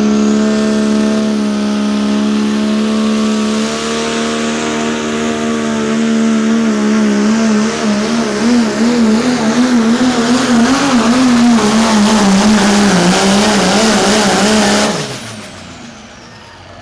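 Turbocharged diesel pulling truck's engine held at high revs under full load. Its pitch is steady at first, then wavers more and more as the truck bounces down the track. About fifteen seconds in the engine cuts off abruptly, and a high whistle slides down as the turbocharger spools down.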